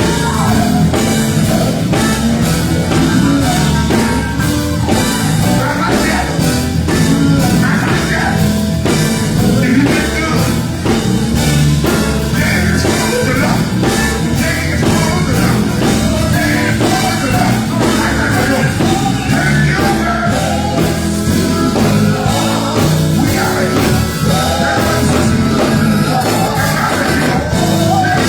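A gospel group performing live: voices singing over electric guitar and a drum kit, with a steady driving beat.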